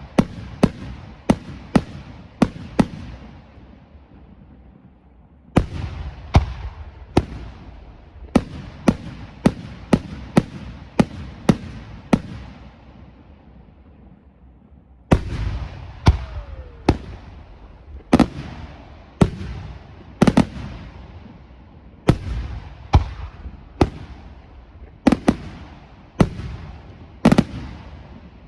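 Aerial fireworks display: shell bursts going off in rapid volleys, several bangs a second, with crackle trailing after them. The booms die away twice in short lulls, about four seconds and fourteen seconds in, and a fresh volley starts after each.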